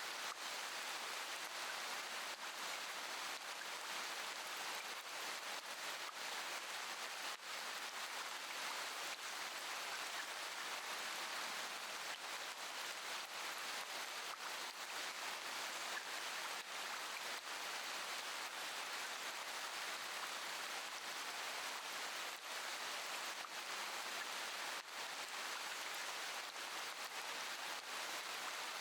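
Steady rain falling: an even hiss with scattered sharp drop ticks throughout.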